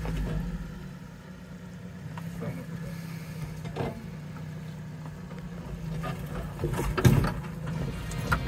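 Fiat Panda 4x4 engine running steadily at low revs, with a few scattered knocks and a sharper thump about seven seconds in.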